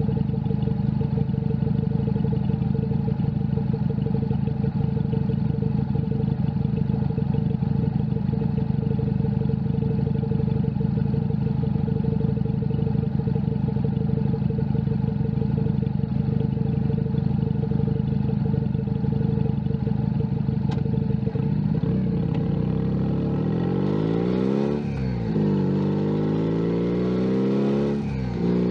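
Junak M11 Cafe 125cc motorcycle engine running at steady revs for most of the time. Near the end the revs climb, drop sharply at a gear change, climb again and drop at a second change.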